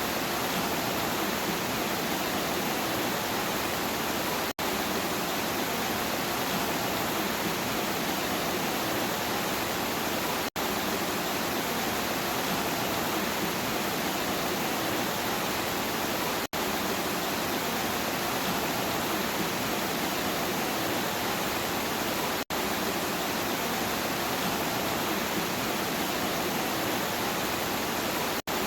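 Steady rain, a dense even hiss with no thunder. It cuts out for an instant about every six seconds.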